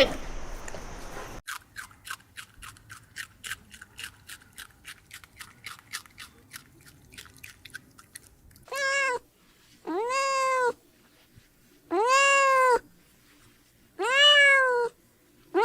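An animal crying: four long calls, each rising and then falling in pitch, about every two seconds, with a fifth starting at the end. Before them comes a run of soft, quick clicks, about four a second.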